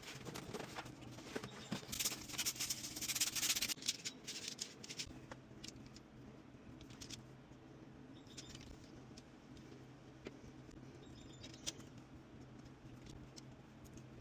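Scattered light clicks and clinks, with a burst of dense clattering about two to four seconds in, over a steady low hum.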